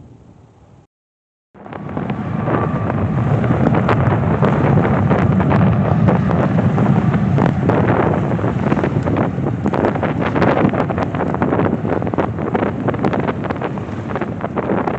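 Jet airliner engines roaring as the aircraft passes low, mixed with wind buffeting the microphone. The sound starts abruptly after a brief dead silence about a second and a half in, swells, then eases slightly.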